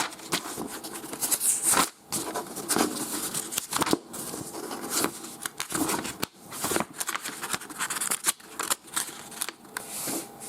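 Paper rustling as the pages of a motherboard manual are flipped through: an irregular run of crinkles and swishes.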